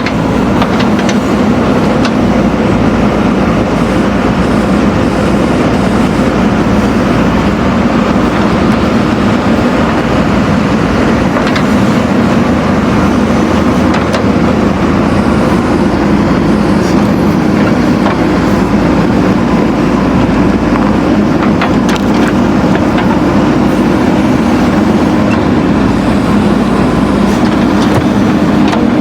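Backhoe loader's diesel engine running steadily, with a few brief clicks.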